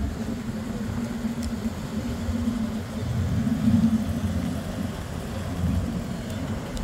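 Oldsmobile Cutlass convertible's engine running as the car drives slowly past: a low, steady rumble that swells as it comes closest, about three to four seconds in.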